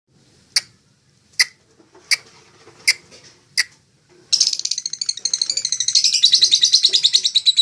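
A lovebird calling: five sharp, high chirps at an even pace, then a little past halfway it breaks into a long, loud, rapid chattering trill that carries on to the end.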